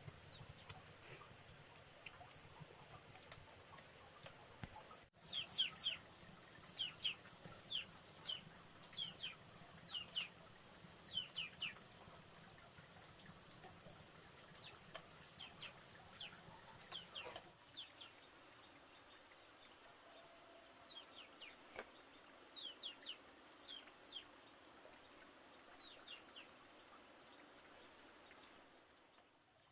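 Small birds chirping in quick clusters of short, falling notes over a steady high-pitched insect drone.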